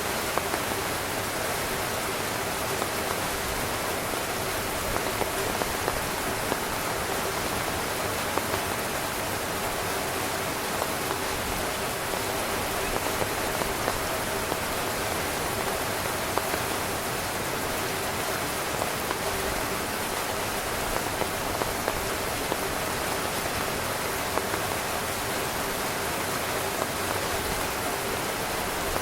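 Heavy rain falling steadily on a tent: a dense, even patter with frequent louder individual drops.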